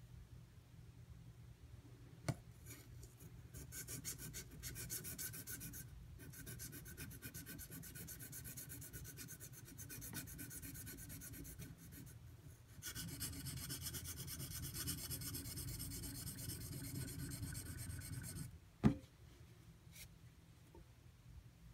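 Steel tanto knife blade being stroked back and forth on a Shapton Pro water stone: repeated fine scraping strokes, loudest in a run from about 13 to 18 seconds. The pressure goes on the pull-back stroke, the way a chisel is honed. A single sharp knock near the end, then it stops.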